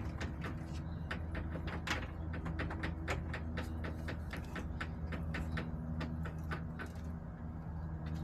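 Irregular sharp taps and clicks, several a second, over a steady low hum: chickens pecking at feed and hard plastic surfaces in the coop.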